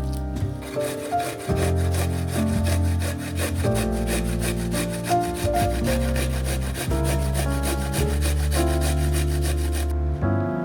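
Rhythmic scraping strokes, about five a second, typical of food being grated or sawn with a knife on a board, stopping about ten seconds in; background music with sustained notes plays throughout.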